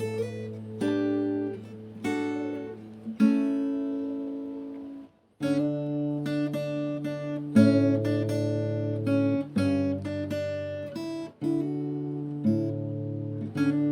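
Background music of plucked acoustic guitar chords, with a brief break about five seconds in before the playing resumes.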